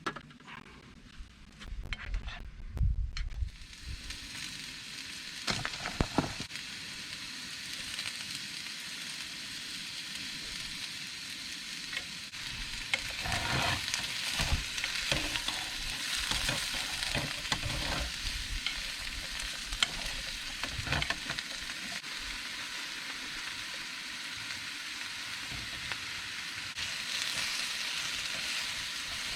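Food sizzling in a frying pan, starting about four seconds in after a few knocks, with clicks and scrapes of a utensil stirring it.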